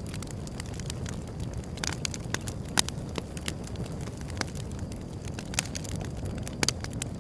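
Wood fire burning with a steady low rumble and irregular sharp crackles and pops from the burning wood, the loudest pop a little under three seconds in and a quick pair near the end.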